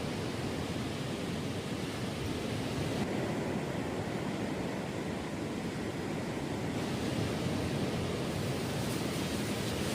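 Steady rushing noise of wind and surf on a beach.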